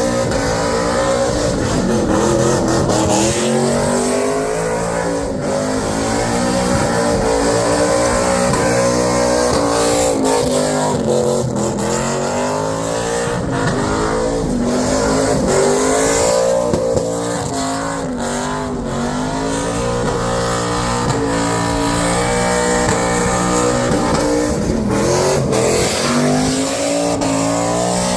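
Car engine revved hard again and again, its pitch rising and falling every second or two, over a steady hiss, as in a burnout.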